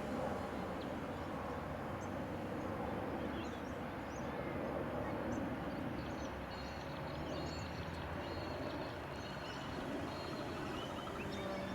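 Outdoor park ambience: a steady rush of wind-like noise with scattered short bird chirps. A faint thin whine holds for a couple of seconds about halfway through.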